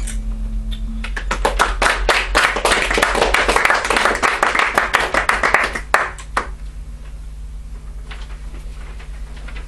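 Audience applause after a song: clapping starts about a second in, holds for about five seconds, then dies away with a few last claps.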